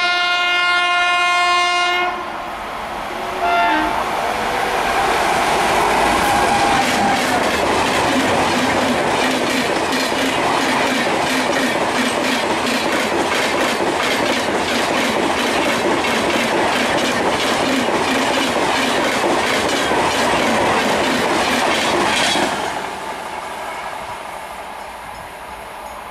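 A WAP7 electric locomotive's horn sounds one long blast and then a short second one. A high-speed express of LHB coaches follows, passing close with rapid, regular wheel clatter over the rail joints. The noise drops suddenly about three-quarters of the way through and then fades as the train recedes.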